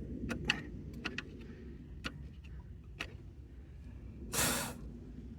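A few sharp metallic clicks from a spanner working at a seized glow plug on a Kubota D905 diesel engine, then a short, hard exhale of effort about four and a half seconds in.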